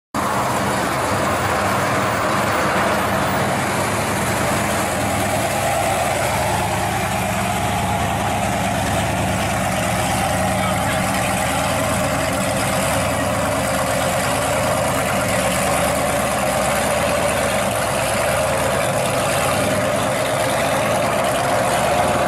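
Supercharged 1972 Pontiac GTO's V8 running at a steady idle, its level even throughout.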